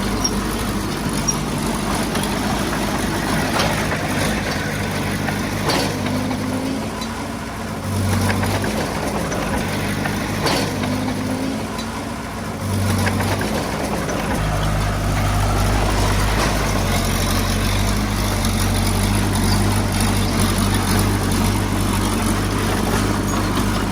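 Heavy-equipment diesel engine running under changing load. It dips twice in the middle, then runs steadier and louder for the second half, with a few sharp knocks.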